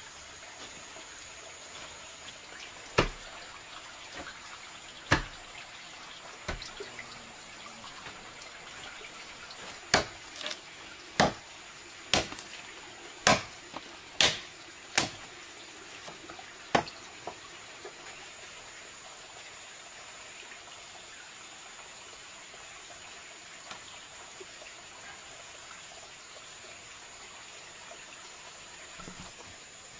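About ten sharp knocks or taps, irregularly spaced, in the first half, over a steady background hiss with a faint high steady tone.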